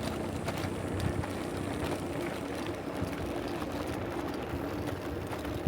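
A motor vehicle engine running steadily, heard over outdoor road noise.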